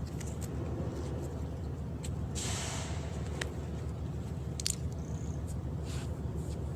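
A low engine-like rumble with a steady fast pulse runs throughout. A brief hiss comes about two and a half seconds in, and a few sharp clicks follow, the loudest just under five seconds in.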